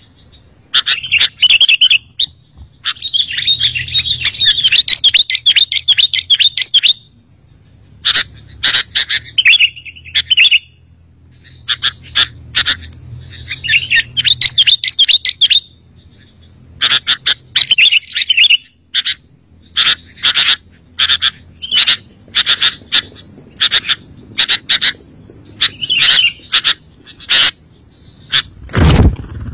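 Sooty-headed bulbul calling: repeated short, sharp, high chirps broken by several bursts of fast chattering. A single loud thump comes near the end.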